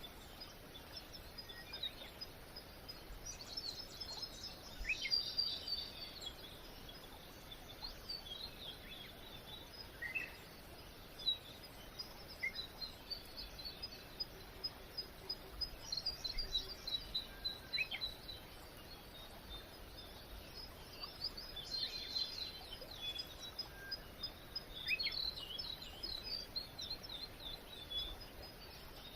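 Birds chirping and twittering in quick runs of high notes, on and off, over faint steady background noise.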